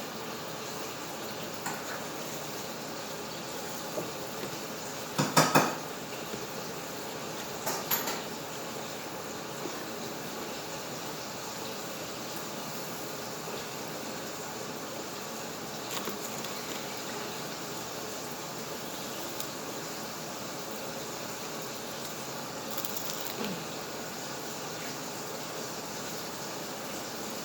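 Kitchen utensils clinking and clattering against dishes and cookware, in scattered separate strikes, the loudest a quick run of clatters about five seconds in and another about eight seconds in, over a steady low hiss.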